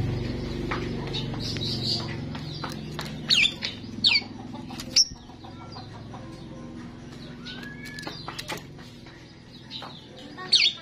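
A starling calling in a series of sharp, downward-sliding whistles and short chirps, over a low hum that fades in the first few seconds.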